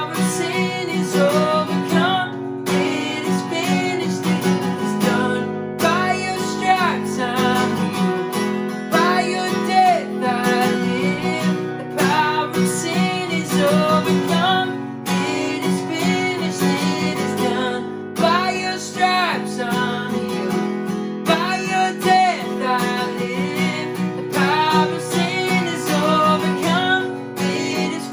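Worship-band music led by a strummed acoustic guitar over a held chord bed, with a gliding melody line above it and no sung lyrics.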